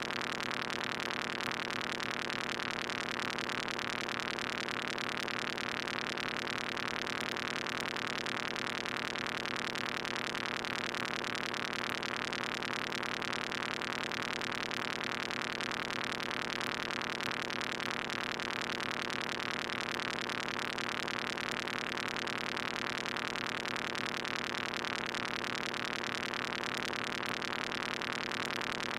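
Moog Mother-32 analog synthesizer holding a steady, harsh, static-like buzzing drone at an even level, its voice modulated by a Comdyna GP-6 analog computer solving the Lorenz chaos equations.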